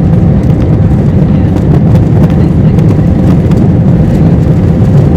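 Loud, steady low rumble inside the cabin of an Airbus A321neo with Pratt & Whitney geared turbofan engines, engine and airframe noise heard from a window seat, with a faint steady tone above it.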